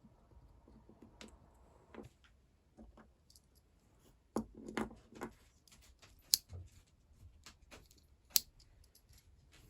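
Scattered clicks and light knocks of small hard objects being handled, with a cluster of knocks in the middle and two sharp clicks in the second half.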